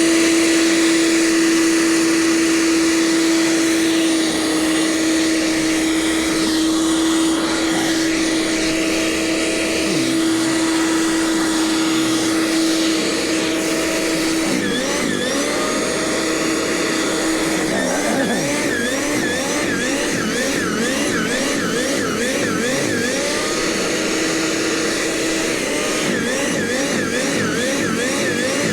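Gasoline snowblower engine running at a steady high pitch, which begins to waver up and down repeatedly from about halfway through as its speed rises and dips.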